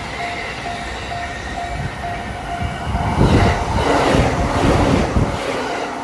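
A Japanese level-crossing warning bell dinging steadily, then from about three seconds in a train passing close by, with a loud rumble and rhythmic clatter of wheels over rail joints.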